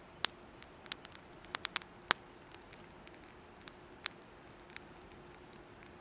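Burning firewood crackling: about ten sharp, irregular pops over a faint steady hiss, the loudest in the first two seconds.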